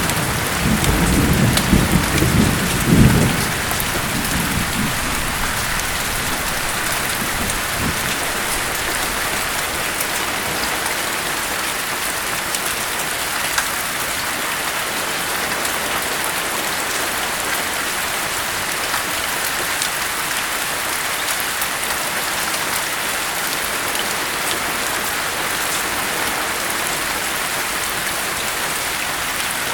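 Steady heavy rain with a rumble of thunder at the start that dies away within the first few seconds, leaving the even hiss of rain.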